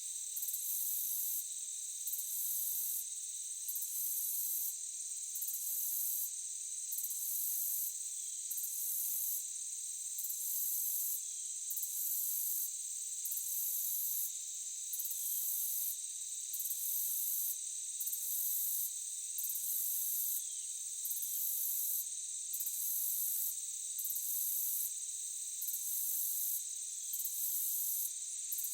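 Forest insect chorus of crickets: a steady high-pitched drone with a higher pulsing trill repeating about once a second, and a few faint short downward chirps now and then.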